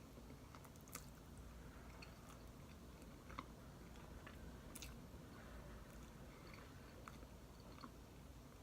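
Faint chewing of a person eating, with a few small, sharp mouth clicks scattered through it.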